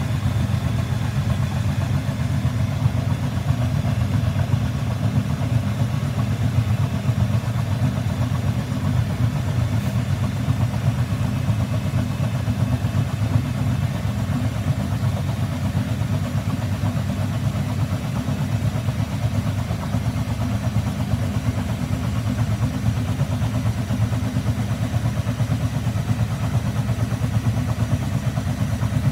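Front-loading washing machine spinning at a steady speed: a loud, even motor-and-drum hum that starts just before and holds level throughout.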